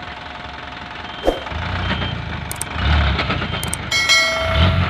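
Isuzu Giga dump truck's diesel engine running and revving up from about a second and a half in, with a short knock just before and a steady tone with a hiss near the end.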